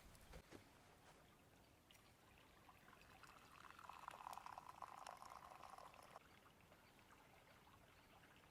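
A liquid being poured, a faint pour that runs for about three seconds from a few seconds in.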